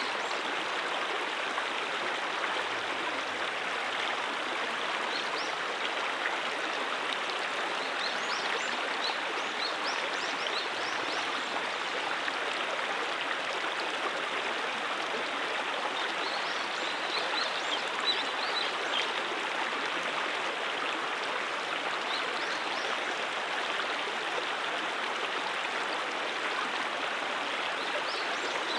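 Creek water running over rocks: a steady, even rush of flowing stream water with small splashes and gurgles.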